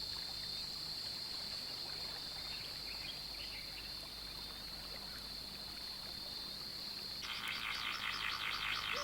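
Natural wetland ambience: a steady high-pitched insect drone over a faint background hiss. About seven seconds in, a rapid pulsing trill starts up.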